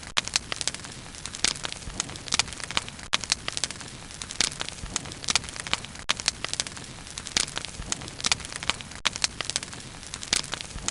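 Wood fire burning, with a steady low hiss under frequent sharp, irregular crackles and pops.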